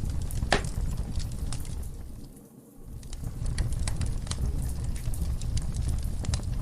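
Wood fire burning in a fireplace: a steady low rush of flame with scattered crackles and pops, one sharp pop about half a second in. The sound briefly fades almost away about two and a half seconds in, then returns.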